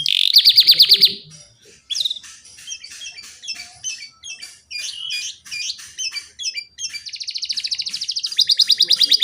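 Canary singing a song filled with imitated lovebird and ciblek (prinia) phrases. It opens with a fast trill, goes almost quiet for a moment, runs through a string of varied high chirps, then breaks into a long rapid trill about seven seconds in.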